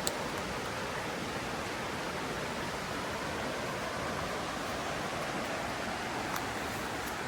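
Mountain river rushing steadily over its bed, a constant even wash of water. Two brief clicks break through, one just after the start and one about six seconds in.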